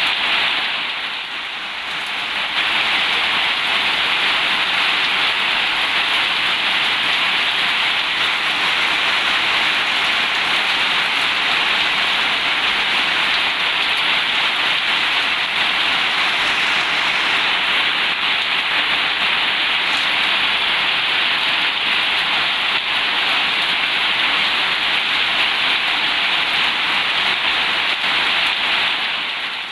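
Heavy rain falling steadily on a corrugated zinc roof, a dense, even hiss that eases briefly about a second in.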